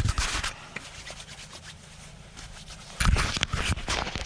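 A cleaning wipe rubbing over hand tools. It goes quiet for a couple of seconds, then about three seconds in come sharp knocks of tools being handled and more rubbing.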